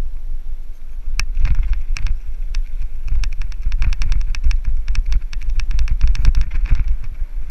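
Mountain bike riding downhill on a rough trail: wind buffets the camera's microphone in a low rumble. From about a second in comes a rapid, irregular run of sharp rattling clicks as the bike jolts over the ground.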